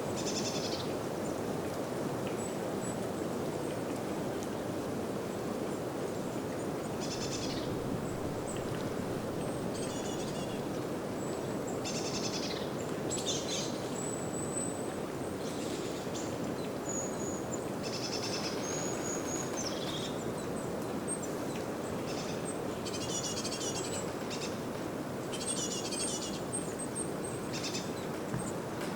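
Wind rushing steadily through a spring birch forest, with small birds singing short, high, chirping phrases again and again over it.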